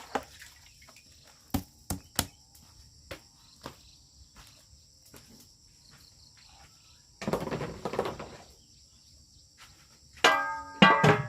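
Steady high-pitched chorus of insects, with a series of sharp knocks and some handling noise over it, and a louder clatter with a brief ringing tone near the end.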